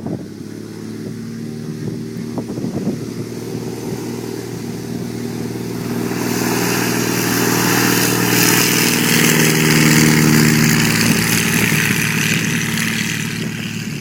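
Stinson 108-1's Franklin six-cylinder air-cooled engine running hard during takeoff. The sound swells about six seconds in, is loudest around ten seconds, then eases off.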